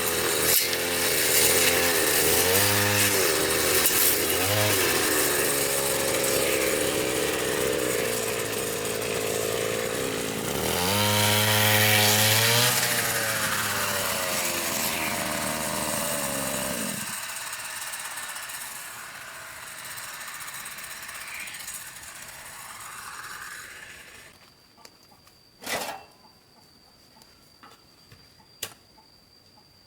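Two-stroke chainsaw running and cutting, its engine pitch dipping under load several times, then shutting off about halfway through. Afterwards it is quiet except for a sharp knock and a click.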